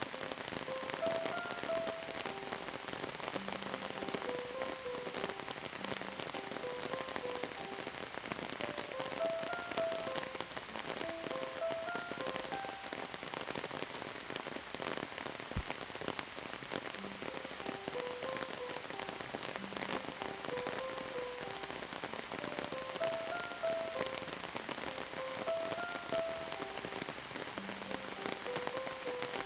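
Steady rain falling, an even hiss of drops, with a soft melody of short held notes repeating underneath every several seconds.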